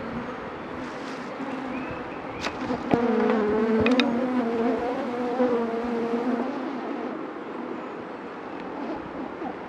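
Honeybees buzzing around an opened hive, a steady hum that swells louder for a few seconds in the middle as bees fly close. A few sharp clicks sound about two and a half and four seconds in.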